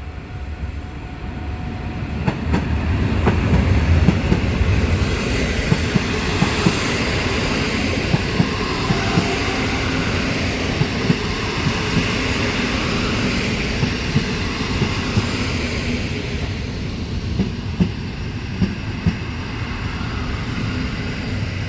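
A train passing through a station, its noise building over the first few seconds and then holding steady, with the clickety-clack of wheels striking rail joints.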